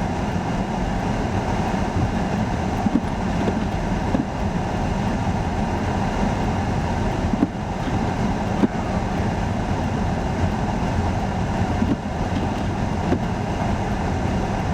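Steady rumbling rush of blizzard wind on the microphone, mixed with the low hum of idling highway traffic, with a few small knocks.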